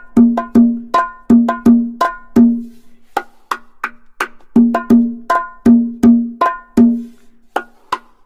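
Electronic game sound effect: a pitched, wood-block-like knock repeated in quick runs of about three a second, with lighter, higher clicks in the gaps between runs.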